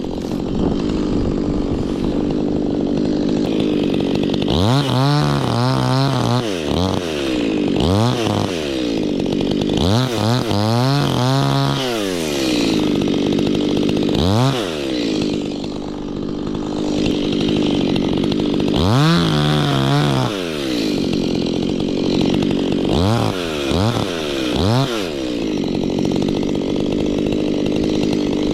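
Stihl two-stroke chainsaw cutting kapok wood, mostly held at high revs, with the engine speed falling and climbing again several times.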